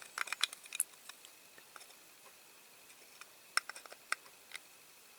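Small sharp metal clicks of pliers gripping and working a hinge pin on a diecast model van's door: a quick cluster in the first second and a few more about three and a half seconds in.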